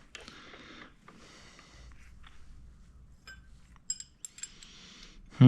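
Small metal bolts clinking and rattling as they are handled and worked into a tight mounting spot, with some rustling. A cluster of sharp, ringing clinks comes between about three and four and a half seconds in.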